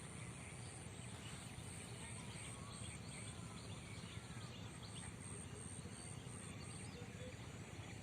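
Rural morning ambience: scattered faint bird chirps over a steady background hiss, with a continuous high-pitched insect buzz that pulses on and off.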